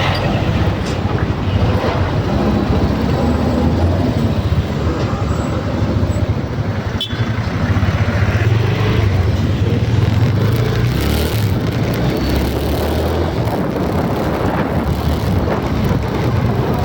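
Loud, steady low rumble of vehicle noise, with a single sharp click about seven seconds in.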